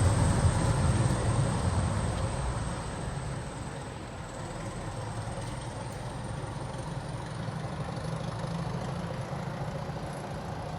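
Classic diesel locomotive engine running under power as it pulls away. Its low rumble fades over the first few seconds, then continues at a steady lower level, with a thin high whine above it.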